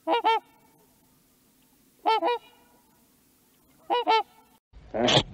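Mute swans honking: three pairs of short, nasal honks about two seconds apart. Near the end a louder, rougher animal call breaks in.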